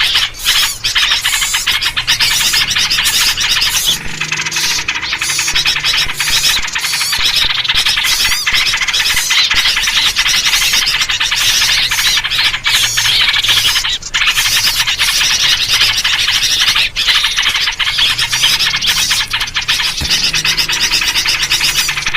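Dense, unbroken chattering and chirping of many small birds calling at once, with sooty-headed bulbul (trucuk) calls: an agitated 'noisy' chorus of the kind played to lure birds.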